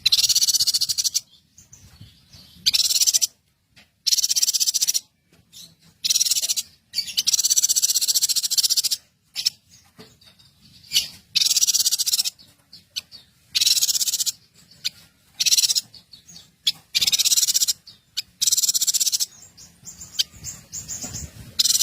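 Small songbird singing a loud, high, rapid trill in phrases of about half a second to two seconds, repeated about ten times with short pauses between.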